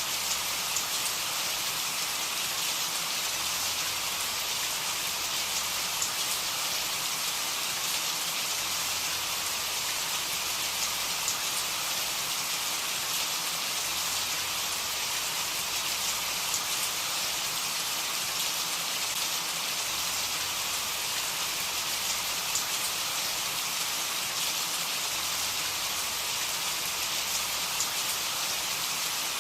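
Steady rain falling, a dense, even hiss of drops on a surface with faint scattered drip ticks.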